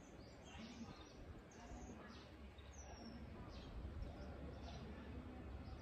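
Faint, scattered bird chirps, short high calls every second or so, one falling sweep about three seconds in, over a steady low outdoor background noise.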